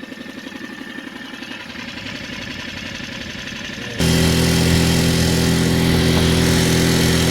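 Mercury 4 hp outboard motor running slowly with an even, pulsing beat. About four seconds in, it suddenly gets much louder and runs steadily at high speed under throttle.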